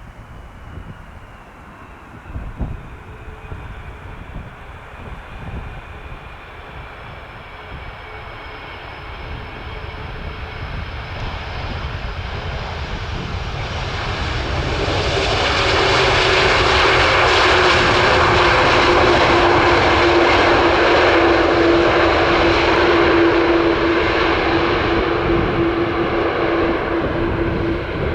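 Jet airliner flying past low, its engine noise building up gradually and loudest for several seconds from about sixteen seconds in with a steady droning tone, then easing off. Gusty wind rumbles on the microphone throughout.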